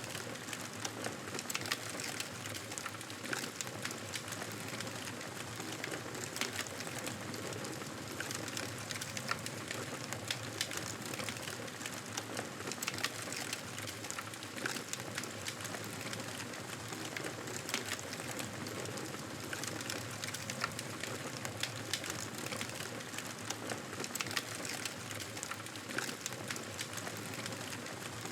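Fire crackling in a fireplace: a steady hiss dotted with frequent small, irregular pops.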